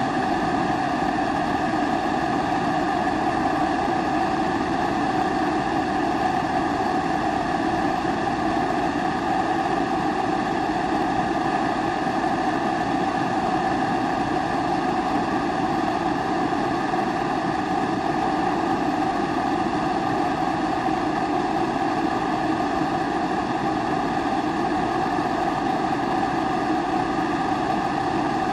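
Kerosene pressure stove (primus-type 'babour') burning steadily: a constant rushing hiss from the vaporised-kerosene burner flame, with a fixed hum in it and no change in level.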